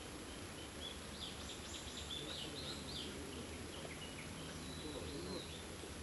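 Wild birds chirping and calling in short bursts, busiest in the first half, over steady outdoor background noise.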